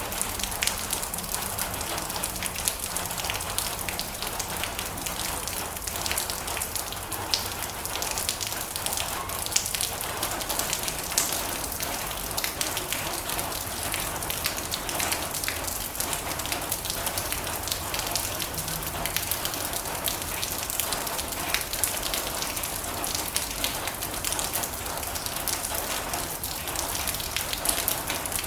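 Steady heavy rain drumming on a metal roof, a dense hiss peppered with the sharp taps of individual drops.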